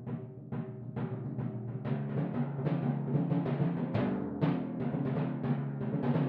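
Solo timpani: a steady run of strokes, about two to three a second, moving between several drums, each ringing on at its own pitch under the next stroke.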